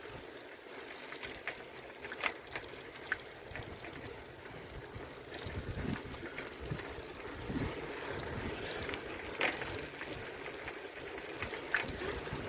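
Bicycle on the move: a steady rush of riding noise with scattered clicks and rattles, and a low rumble swelling around six to eight seconds in.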